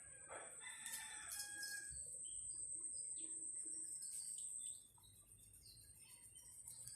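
A rooster crowing, one drawn-out call that fades about two seconds in, over a steady high-pitched whine that stops suddenly a little before the end.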